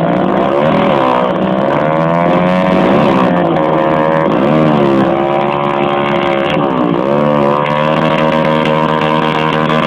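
Motocross bike engine running loud and revving, its pitch dipping and climbing again about four times as the throttle is worked.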